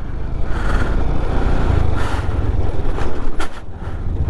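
Motorcycle running along the road while being ridden, a steady low engine rumble mixed with wind noise over the microphone.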